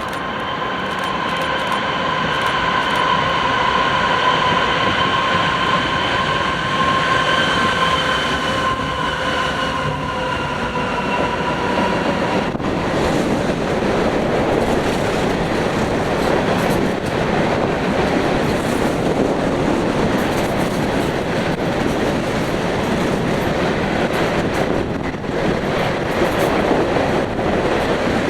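Freight train passing: a long, high sustained tone with overtones, sagging slightly in pitch, cuts off about twelve seconds in, while the rolling rumble of the locomotive and railcars goes on throughout.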